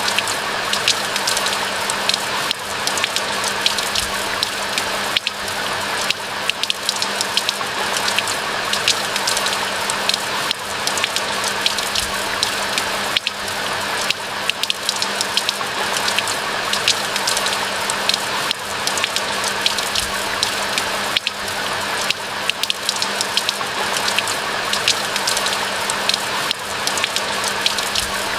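Steady rain falling in a forest: an even hiss full of many close, sharp drop ticks.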